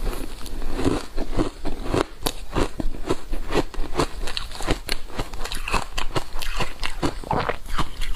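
Frozen matcha powder ice being bitten and chewed: rapid, irregular crunches, several a second.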